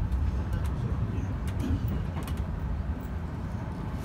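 Electric commuter train running along the track, heard from inside the cab: a steady low rumble with light clicks now and then.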